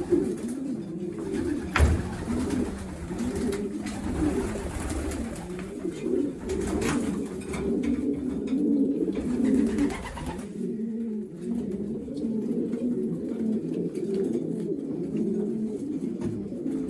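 Racing pigeons cooing in a loft, a continuous warbling coo with no break. A sharp knock comes about two seconds in.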